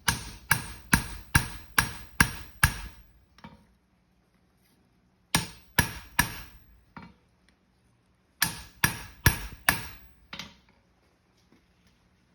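Hand hammer striking hot steel on an anvil as a horseshoe is forged, each blow ringing. The blows come in three runs: about seven quick ones, then three, then about five, with short pauses between.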